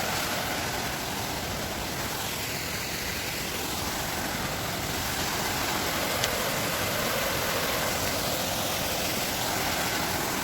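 Steady rush of a waterfall heard close up: an even, unbroken wash of falling water.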